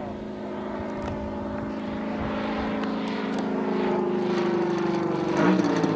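Giant-scale RC airplane's engine and propeller droning as the plane flies, growing louder as it comes closer. The pitch slides slowly down, with a quick dip and recovery about five and a half seconds in.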